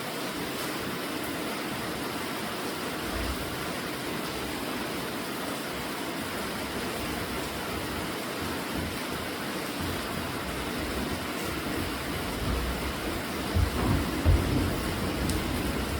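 Steady heavy rainfall, an even hiss, with a few low rumbling swells near the end.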